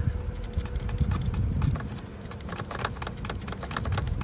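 Irregular small clicks and taps of a screw and paddle-shifter hardware being handled and worked into place, over a low rumble.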